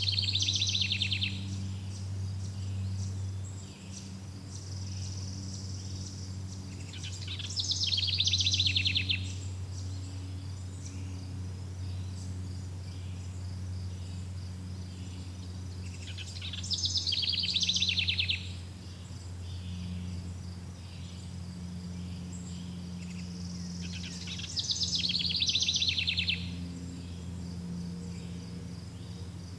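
Forest ambience: a bird's rapid trilled phrase, falling in pitch, comes four times about eight seconds apart, over a steady faint chirring of insects and a low steady hum.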